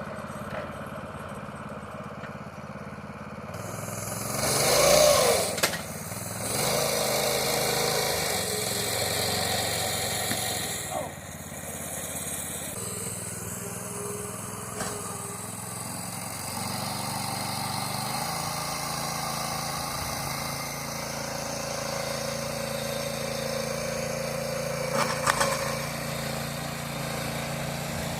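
Harbor Freight Predator 212 single-cylinder engine running, its note shifting as the throttle changes. A loud rushing noise rises and falls around five seconds in, and there is a brief sharp peak near the end.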